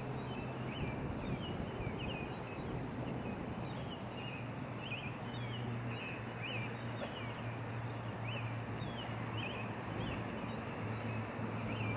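Faint outdoor ambience: scattered short, high chirps over a steady low hum and a soft background hiss.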